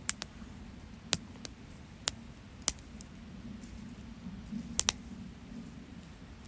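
Wood campfire crackling: sharp, irregular pops and snaps, a few per second at most, over a low steady rumble of the burning fire.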